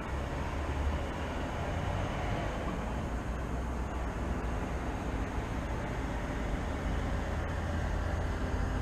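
Steady low rumble of city traffic, with no single sound standing out.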